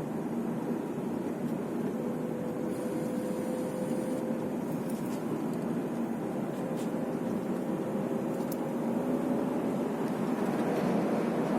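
Car cabin noise while driving: a steady hum of engine and tyres on the road, with a faint steady tone, growing slightly louder near the end.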